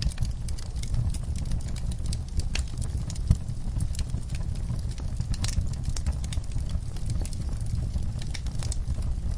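Wood fire burning in a fireplace: frequent small crackles and sharp pops over a steady low rumble of the flames, with one louder pop a little over three seconds in.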